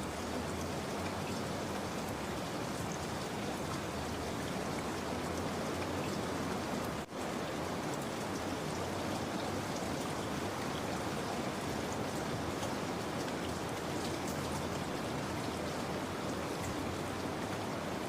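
Steady rain falling: an even, unbroken hiss of drops, with a momentary dip about seven seconds in.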